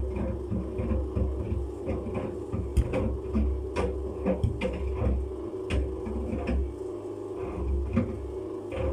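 Samsung washing machine drum turning at low speed as it tries to balance an uneven load, with a steady motor hum, a low pulsing rhythm and scattered knocks and clicks from the load and drum.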